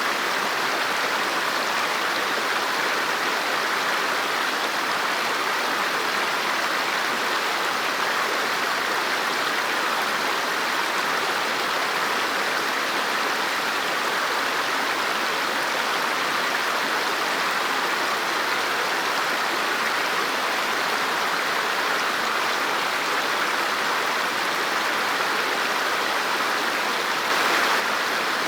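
River water flowing over rocks: a steady, continuous rushing, with a brief slight swell in loudness near the end.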